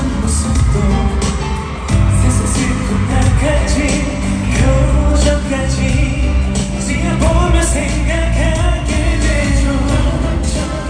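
Male pop vocal group singing live over a pop backing track with a strong bass beat.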